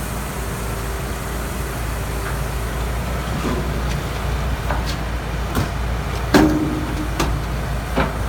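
Heavy demolition machine's engine running steadily at a low drone, with a series of sharp cracks and knocks of the house's wood and debris breaking, the loudest about two-thirds of the way in.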